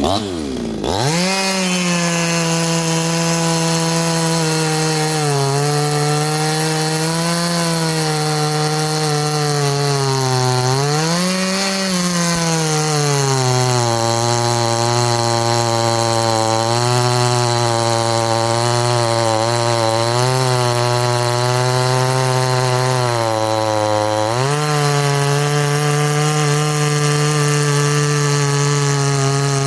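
A 58cc Chinese two-stroke chainsaw running hard through a cut. Its revs climb quickly in the first second, then sag under load for several seconds in the middle and pick up again near the end.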